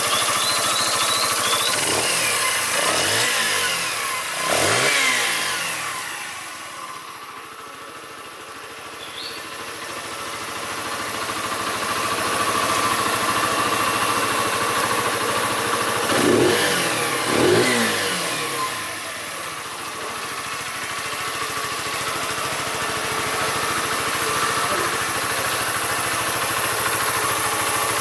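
Keeway RKS 125 motorcycle's single-cylinder four-stroke engine idling, with quick throttle blips that rise and fall, a few between two and five seconds in and two more around sixteen to eighteen seconds in.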